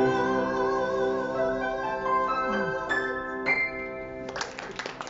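Closing bars of a waltz song on keyboard accompaniment: a wavering held note, then a few final chords. The music stops about four seconds in, and applause begins.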